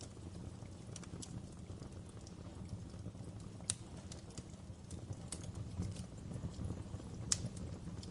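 Wood fire burning in a fireplace: a steady low rumble of flames with irregular sharp crackles and pops, two louder pops about midway and near the end.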